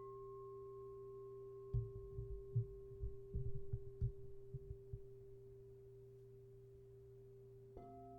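A singing bowl struck once, ringing on in one steady tone that slowly fades. A run of soft, irregular low thumps comes in under it in the middle. Near the end a second, lower-pitched bowl is struck and rings.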